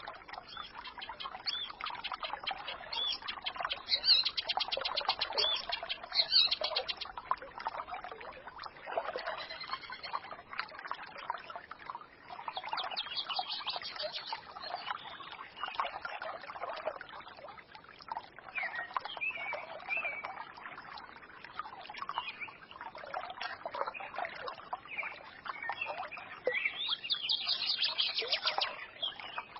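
A small forest stream babbling and trickling, with songbirds chirping and twittering over it; rapid trills stand out around four seconds in and again near the end.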